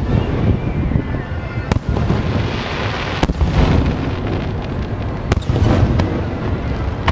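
Fireworks display: a dense, continuous low booming of aerial shells bursting, with three sharp cracks about 2, 3 and 5 seconds in and a crackling hiss between them.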